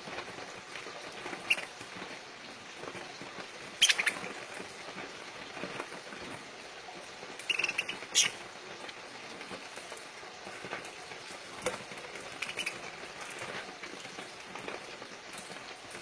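Pet parakeets chirping now and then with short, sharp calls, the loudest about four and eight seconds in, over a steady rustling hiss.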